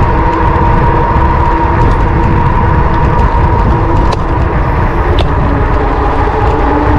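Wind rushing over the microphone of a camera riding on a moving electric bike, with a steady whine from the bike's motor underneath and a few faint clicks.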